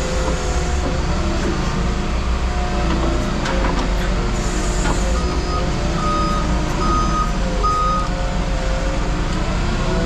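A heavy equipment engine running and revving up and down, with a reversing alarm giving about four short beeps past the middle.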